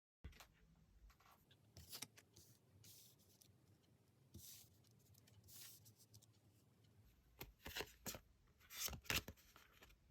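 Faint rustling swishes and soft clicks of tarot cards being handled, with a busier run of louder swishes near the end.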